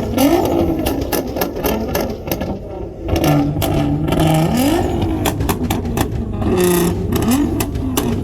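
Car engines revved repeatedly, the pitch climbing and dropping several times over a steady idle, with many sharp pops.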